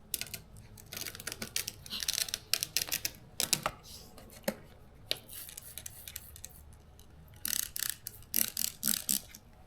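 Irregular clicks, taps and short crinkly scrapes from hands working a vinyl side stripe and its paper backing onto a car body.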